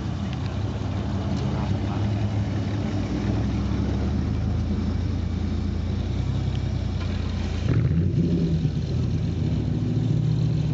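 1953 Chevy 3100 pickup's straight-six engine running steadily under way, a low drone. Near the end its note steps up abruptly and grows louder.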